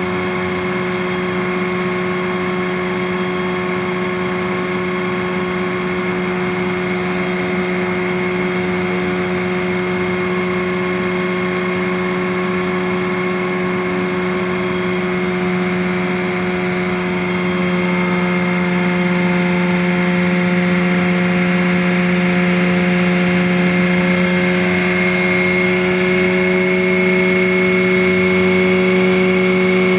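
An engine running steadily at one constant pitch, getting a little louder about halfway through.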